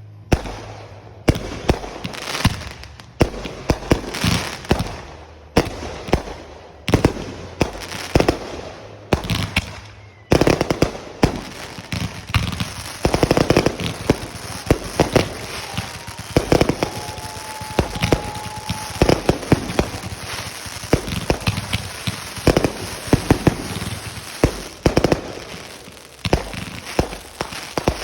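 Fireworks going off: separate sharp bangs about once a second at first, then from about ten seconds in a dense, continuous run of pops and crackling, with a short steady whistle partway through.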